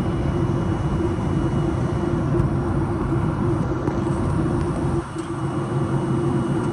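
Steady cabin noise of a Boeing 737-800 airliner in flight: an even rush of engine and airflow noise with a steady hum, dipping briefly about five seconds in.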